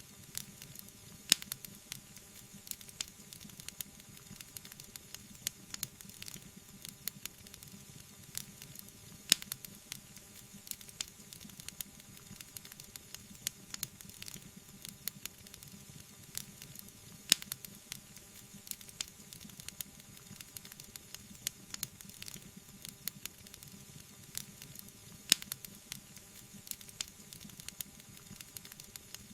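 Wood fire crackling: many small snaps and ticks over a soft steady hiss, with a sharper pop about every eight seconds.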